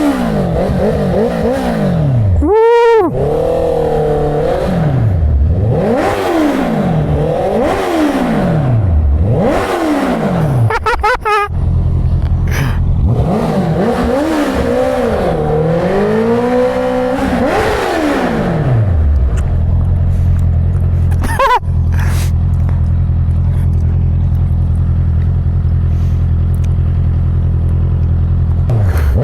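Inline-four engine accelerating and shifting, its pitch climbing and dropping again and again, with one sharp high rev about three seconds in. After about nineteen seconds it settles into a steady idle.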